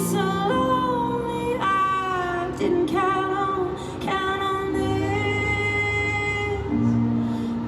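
Live female pop vocal with band accompaniment: a woman singing drawn-out, sliding notes, one held for a couple of seconds from about four seconds in, over sustained keyboard and bass notes.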